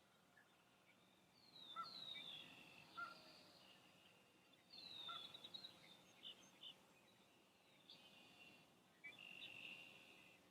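Faint wild birds calling in three bouts of overlapping high calls, with falling slurred notes and short held notes.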